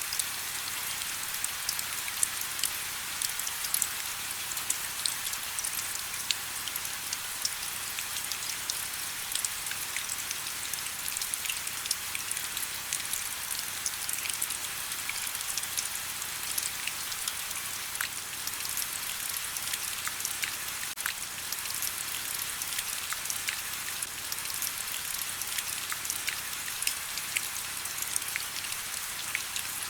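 Steady rain: an even, high hiss dotted with many separate drop ticks.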